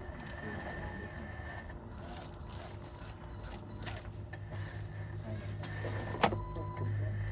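Small electric motors and gears of radio-controlled construction models running, with a steady low hum and a sharp click about six seconds in.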